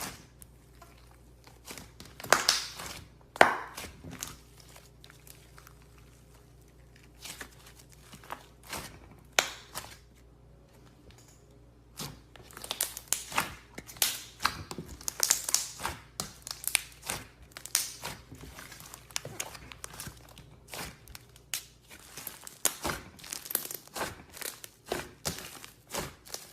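Slime being squeezed and handled, making irregular crackles, pops and clicks: a few scattered ones at first, then a steady crackling from about halfway through.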